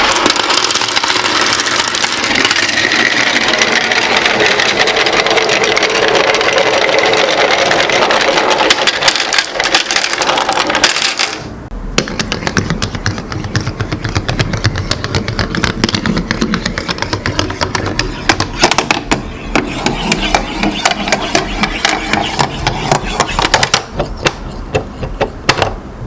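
Glass marbles rolling and clicking through a marble run: a dense, continuous rolling rush crowded with clicks, changing abruptly a little past the middle to a steady stream of rapid clicks.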